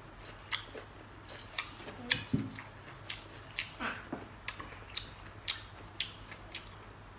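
Close-up chewing of juicy fresh pineapple: a run of short, crisp, wet bites and crunches, about one to two a second.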